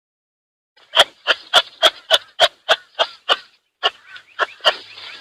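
Kangaroo clucking: a fast run of short, sharp clucks, about three or four a second, with a brief break in the middle.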